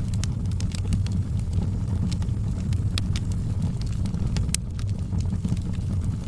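Wood fire burning in a fireplace: a steady low rumble of flames under frequent sharp crackles and pops, with one louder pop about four and a half seconds in.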